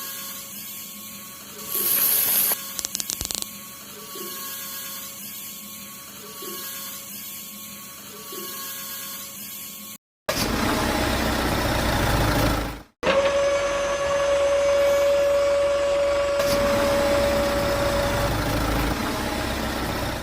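A small electric motor running steadily, heard in several separate clips with abrupt cuts between them, including a loud steady whine in the second half.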